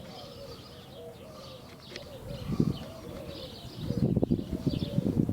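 A dove cooing in a repeated series of low, wavering notes, with small birds chirping faintly higher up. Uneven low rumbling noise comes in after about two seconds and grows louder near the end.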